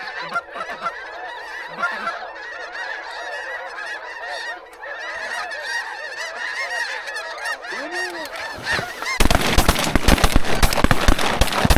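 A flock of geese honking, many calls overlapping. About nine seconds in, a sudden loud run of rapid sharp cracks and rough noise sets in over them.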